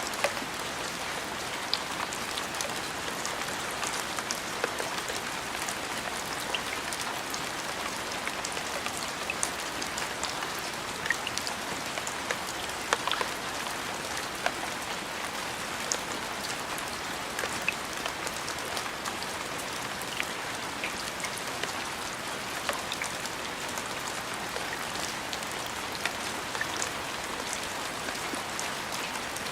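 Steady rain, with individual drops ticking sharply and irregularly over the even patter.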